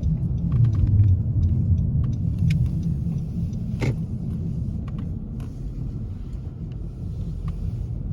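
Car driving on snow-covered roads, heard from inside the cabin: a steady low rumble of engine and tyres, with scattered faint clicks and one sharper tick about four seconds in.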